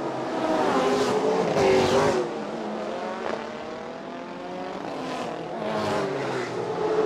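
Racing car engines passing at speed, one after another. A loud pass about two seconds in drops in pitch as it goes by, then another car comes up near the end.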